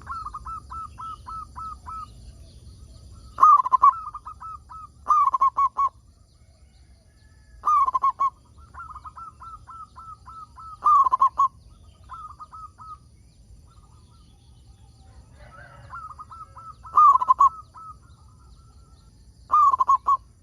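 Zebra doves (perkutut) cooing: repeated phrases of quick staccato coos, some loud and some softer, separated by short pauses.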